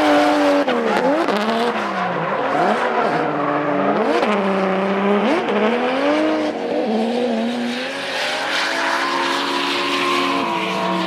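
Two drift cars running in tandem, their engines revving hard with several sharp drops and climbs in pitch over the first few seconds, then held more steadily at high revs. Throughout there is a hiss of tyres squealing as they slide.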